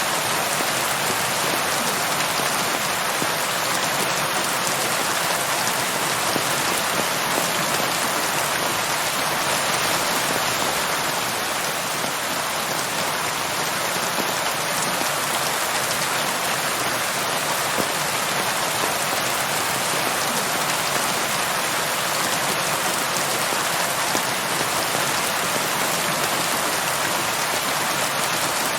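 Steady, heavy rain falling and pattering on surfaces, an even hiss of many drops with no let-up.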